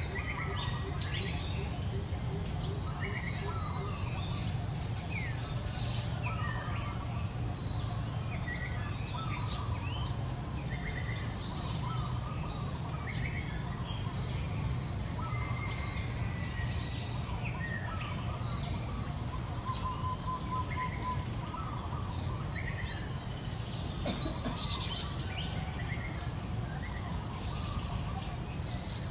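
Several birds chirping and calling over a steady low background rumble. About five seconds in, a fast high trill of rapid repeated notes lasts nearly two seconds and is the loudest sound.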